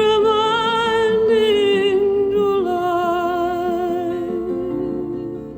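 A slow, gentle song: a singer holds a long note with vibrato, then steps down to a lower held note about two and a half seconds in, over soft instrumental accompaniment.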